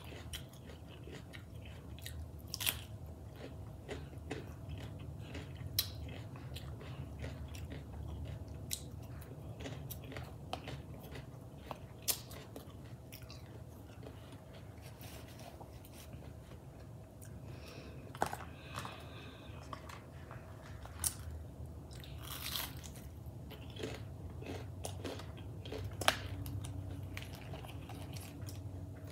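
Close-up chewing and biting of raw cucumber and iceberg lettuce, with irregular sharp crunches every few seconds over steady chewing.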